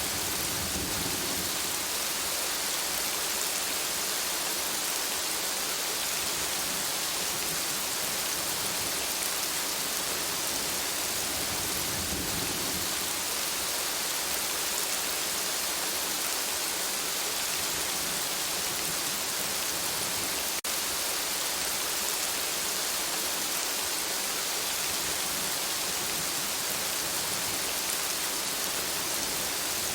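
Steady, dense rain hiss, with soft low rumbles of distant thunder swelling now and then. A brief dropout about two-thirds of the way through, typical of a loop splice.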